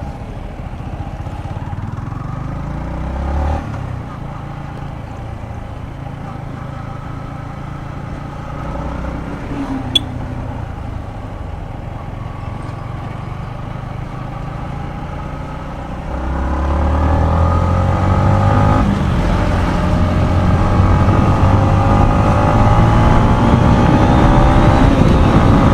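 Yamaha MT-15's single-cylinder engine and exhaust on the move, the engine note rising and dropping as the bike is ridden. There is one sharp click about ten seconds in. From a little past the middle it gets clearly louder and climbs in pitch as the bike accelerates harder.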